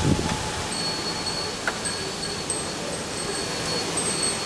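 Steady rain falling in a thunderstorm, an even hiss, with a gust of wind buffeting the microphone at the start. Faint, thin, high tones come and go over the hiss.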